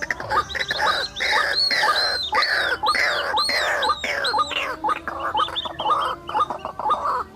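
White-breasted waterhens calling: a loud, rapid series of repeated arching notes at about two a second, overlapping with a faster run of short rising notes, typical of the species' raucous chorus.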